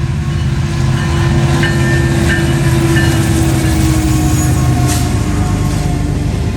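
Freight train passing at close range: diesel locomotives running with a steady, loud drone, with a tone that slowly falls in pitch as they go by. A few brief high tones come between about one and a half and three seconds in.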